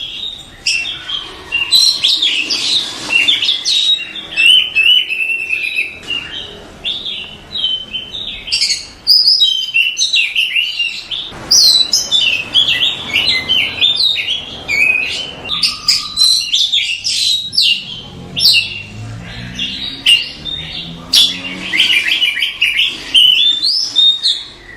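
Oriental magpie-robin (kacer) singing continuously: a dense run of rapid whistles, chirps and trills with hardly a pause.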